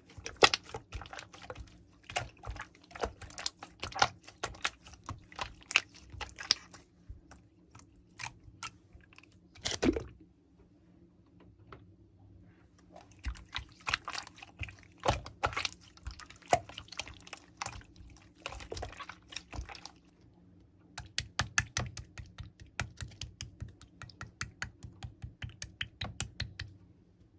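Quick light taps and clicks in irregular runs, like typing, with a few pauses and one louder knock partway through.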